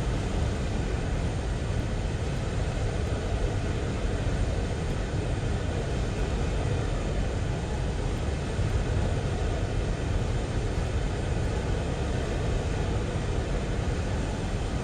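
Train rolling by with a steady, deep rumble.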